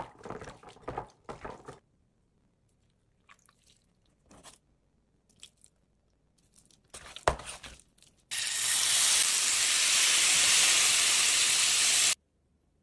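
Marinated chicken skewers sizzling loudly in a hot cast iron skillet, an even hiss that starts suddenly about eight seconds in and cuts off about four seconds later. Before it come wet squelching as raw chicken is worked by hand in marinade in a glass bowl, and a single sharp clink.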